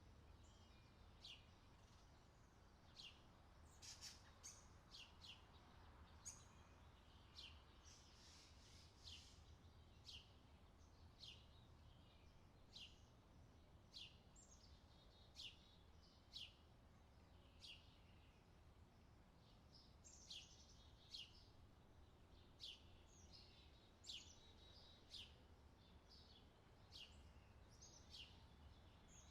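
Quiet songbird chirping: short calls that sweep down in pitch, repeated about once a second, over a low steady hum.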